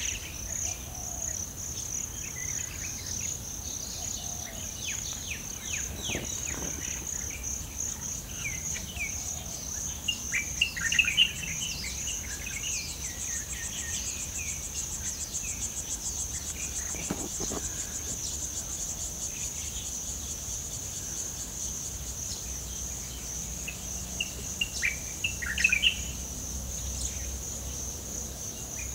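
A steady chorus of insects keeps up a high, pulsing trill. Birds call over it in chirping bursts, loudest about ten seconds in and again near the end.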